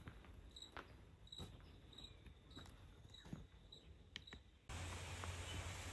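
Faint cricket chirping: short, high chirps repeating about every half second, with a few soft clicks. Near the end a steady hiss and low hum cuts in abruptly.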